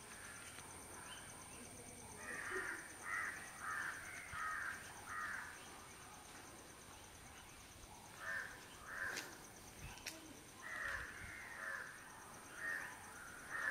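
A bird calling in runs of short repeated calls: about five a couple of seconds in, then more from about eight seconds on.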